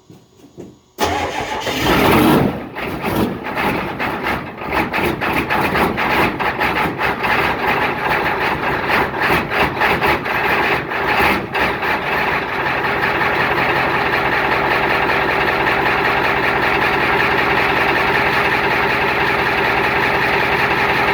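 Old truck engine cold-starting: it fires about a second in and runs rough and uneven, then settles into a steady idle about twelve seconds in. It is a hard-starting engine that barely wanted to get going in the cold.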